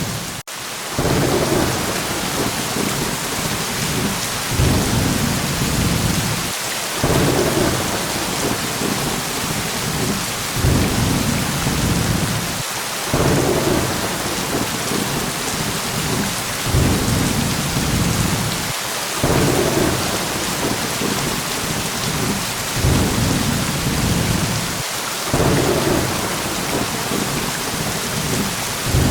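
Thunderstorm: a steady hiss of heavy rain with low rolls of thunder that swell again every couple of seconds.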